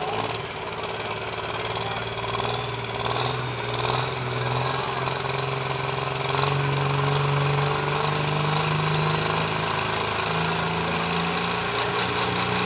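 A pulling tractor's engine running under throttle, its pitch stepping up several times over the second half and growing louder toward the end.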